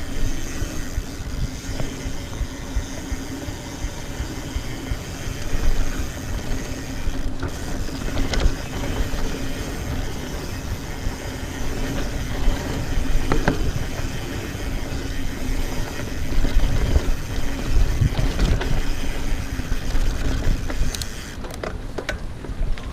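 Mountain bike riding fast along a dirt trail: steady rumble of tyres and wind on the bike-mounted microphone, with a steady hum throughout and scattered clicks and knocks from the bike over the ground.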